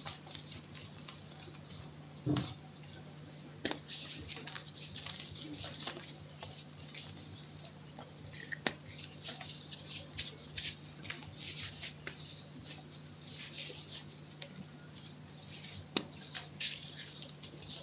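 Close-miked crunching of chalk: a dense, irregular run of small crackles with sharper clicks now and then, over a low steady hum.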